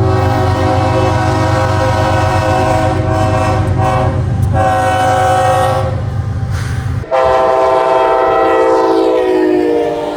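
Locomotive air horns sounding chords over a low rumble; about seven seconds in, a cut to a different horn blast without the rumble, its pitch sliding down near the end.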